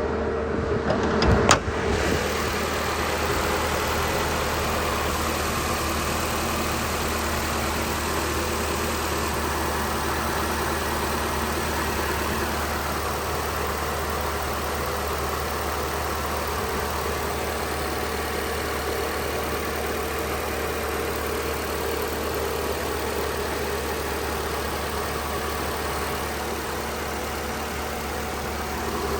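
2019 Nissan Sentra's 1.8-litre four-cylinder engine starting about two seconds in, after a few clicks, then idling steadily.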